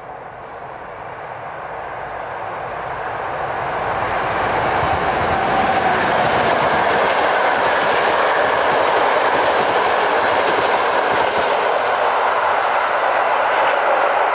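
Passenger train hauled by an EU160 (Newag Griffin) electric locomotive approaching and passing close by. The rumble of wheels on the rails grows over the first four seconds, then holds as a steady loud rush while the coaches roll past.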